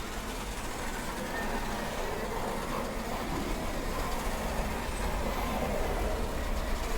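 Small electric remote-control cars driving on a road: a steady whirring and rushing of motors and tyres, growing slightly louder.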